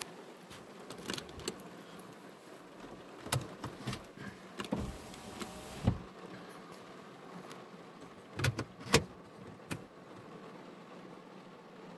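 Irregular taps of raindrops hitting a car roof, heard from inside the parked car over a steady hiss, with a few louder knocks near the 8–9 second mark.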